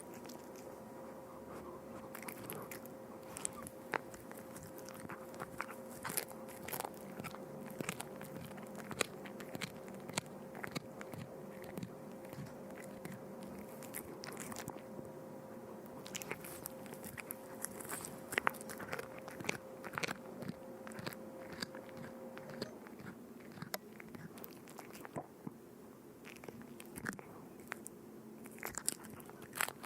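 Crunchy food being bitten and chewed, an irregular run of crisp crunches. A steady faint hum sits under it and stops about three-quarters of the way through.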